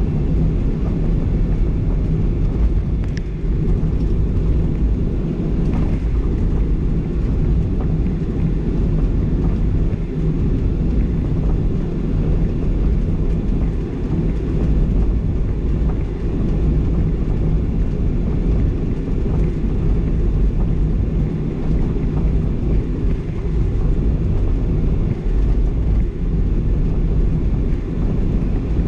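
Steady low rumble of a Boeing 737-800's jet engines and airframe, heard inside the passenger cabin at a window seat.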